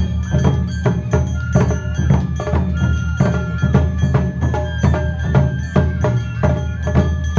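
Live Japanese festival dance music in the Awa Odori style: drums and ringing metal percussion beat a fast, steady rhythm, with pitched instruments sounding over them.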